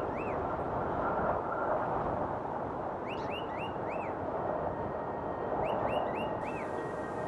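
Steady outdoor rushing noise, like wind or flowing water, with a small bird chirping in quick groups of three or four, once at the start, again around the middle and once more near the end.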